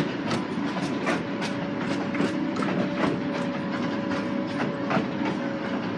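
Miniature railway train running along the track: the wheels click over the rail joints about three times a second, over a steady rumble and a faint steady whine.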